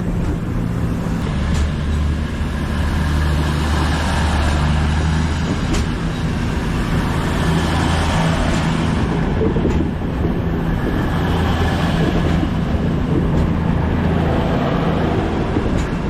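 CrossCountry Class 221 Super Voyager diesel-electric multiple unit departing, its underfloor diesel engines running under power with a loud, steady low drone.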